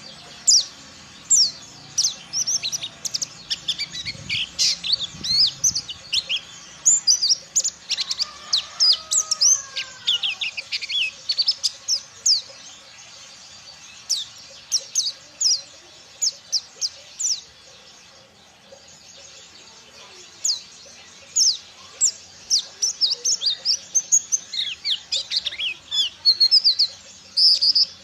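White-eye (pleci) singing a rapid, high twittering song in long bursts, with a pause of a couple of seconds around the middle. A lower, descending whistled phrase comes about a third of the way through.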